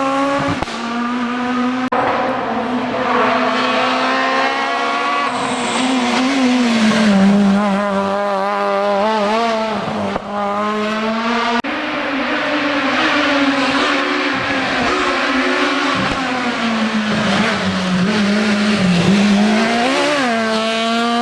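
Rally car engine at full effort on a stage. The note climbs repeatedly under acceleration, drops sharply at gear changes, and falls back as the car lifts for corners.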